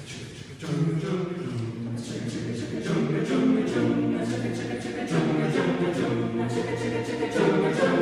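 A cappella chamber choir singing a wordless introduction: breathy, hissing vocal strokes on a steady beat, with low sustained chords entering about a second in.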